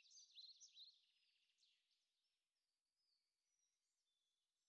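Near silence, with faint, quick bird chirps in the first second that then die away.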